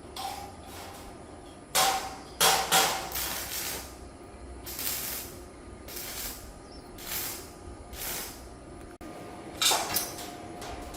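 Metal clanging in a workshop: sharp strikes on steel, each with a short ring, two or three close together about two seconds in and again near the end. Softer swishing sounds come in between.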